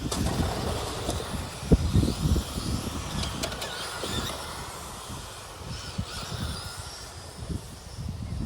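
Electric motors of radio-controlled Tamiya race trucks whining as the trucks race, the pitch rising and falling. A sharp knock a little under two seconds in is the loudest moment.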